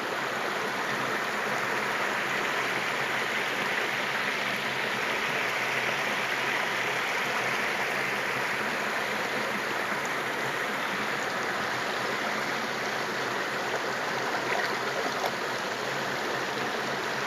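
Creek water pouring steadily over a small waterfall, a continuous rushing and splashing.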